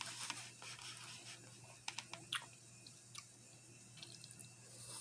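A person chewing a mouthful of pork fried rice, with wet mouth clicks and smacks, denser in the first second and with a few sharp clicks about two seconds in.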